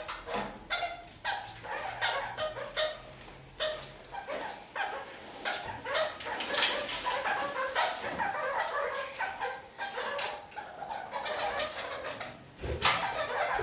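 Red-crowned kakariki parakeets chattering and calling, many short calls in quick succession.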